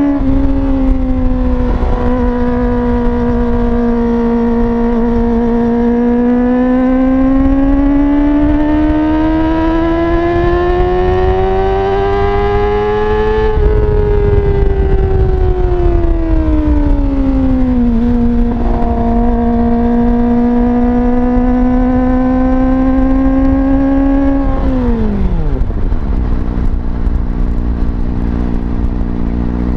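Kawasaki ZX-25R's 250 cc inline-four running at high revs through a slip-on exhaust with the dB killer removed. It holds a high, steady pitch, climbs slowly for several seconds, falls back and holds again, then drops steeply near the end and settles at lower revs.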